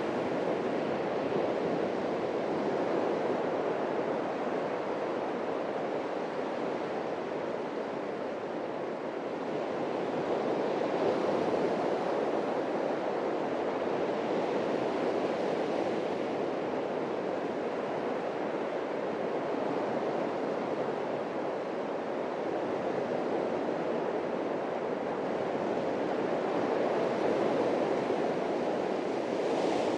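Atlantic Ocean surf breaking and washing up a beach: a continuous rushing wash that swells and eases slowly as waves come in.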